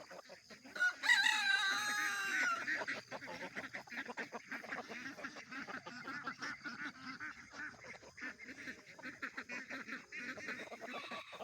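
A rooster crows once, about a second in, for about two seconds, its pitch falling at the end; chickens cluck softly after it.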